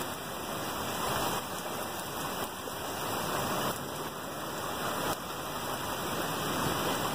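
Heavy rain pouring down and pattering on surfaces in a steady, dense hiss that swells and eases a little every second or so.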